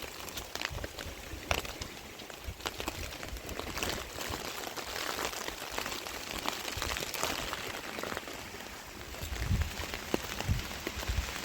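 Rain falling steadily: a continuous patter of drops with many scattered individual drop ticks, and a few low thumps near the end.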